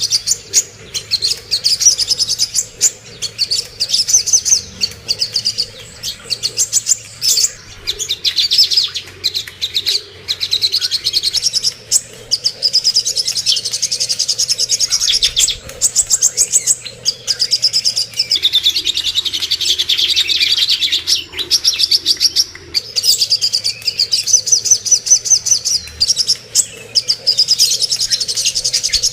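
Cucak kombo and songok birds singing without a break: rapid, dense chirping trills on high notes. It is a masteran recording, played to teach caged songbirds to sing.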